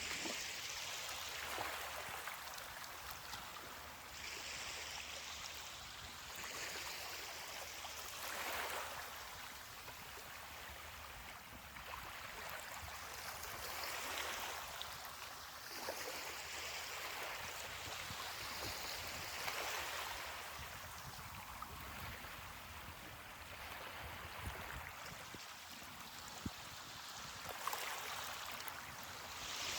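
Ocean waves washing onto a beach: a hiss of surf that swells and eases every few seconds.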